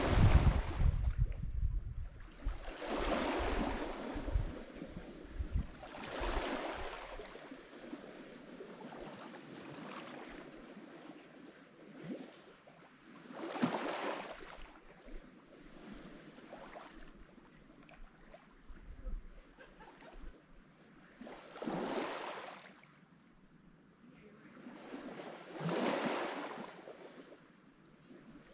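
Lake Michigan waves breaking on the shore, each wash swelling up and falling away, one every few seconds.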